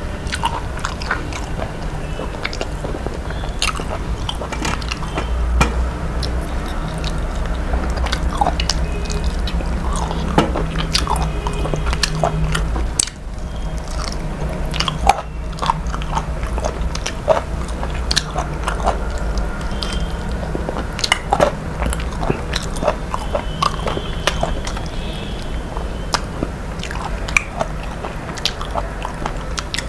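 A person eating close to the microphone: chewing and biting, with many small sharp clicks, over a steady low hum.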